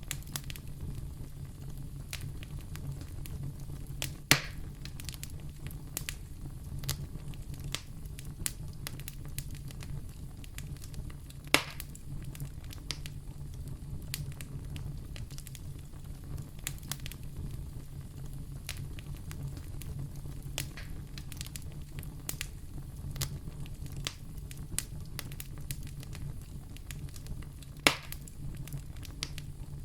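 Wood fire burning in a fireplace: a steady low rumble under frequent small crackles, with three louder pops, about 4 s in, about 12 s in and near the end.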